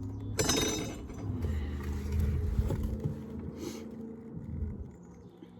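Handling noise from a wooden hive frame being worked. A sudden scrape about half a second in, then rustling and knocks that die down near the end, over a low steady hum.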